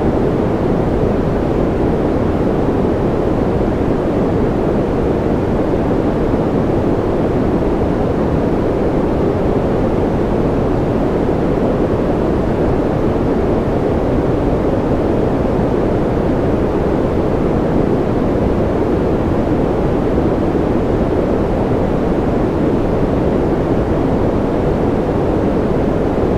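Steady white-noise ambience: an even, deep rush, duller than a hiss, that never changes, with no separate drops or other sounds in it.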